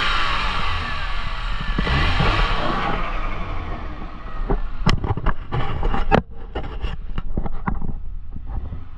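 2018 BMW X2's 2.0L four-cylinder engine running: a rev falls back toward idle in the first few seconds and then keeps a steady idle. Past the middle it is overlaid by a run of sharp clicks and knocks.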